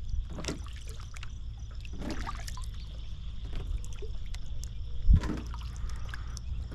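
Water trickling and splashing in brief swishes around a small boat on a lake, with a single low knock about five seconds in and a steady high hum behind.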